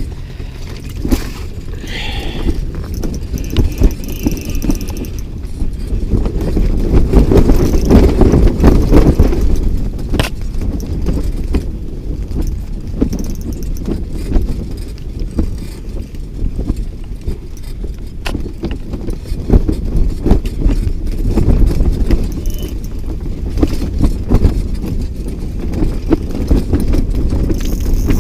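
Strong gusting wind buffeting the microphone: a loud, uneven low rumble with thumps, swelling strongest a few seconds in.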